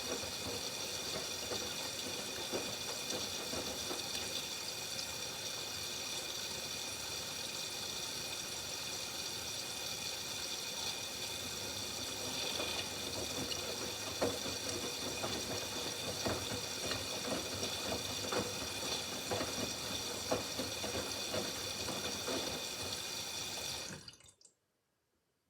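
Miele W5801 WPS washing machine taking in water: a steady rush of water with a high hiss and small splashes, cutting off abruptly near the end.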